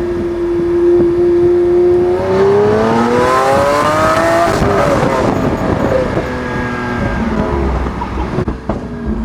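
Lamborghini V12 engine and exhaust under way: it holds steady revs for about two seconds, revs up with a rising pitch, drops back sharply about halfway through, then settles into a lower steady note.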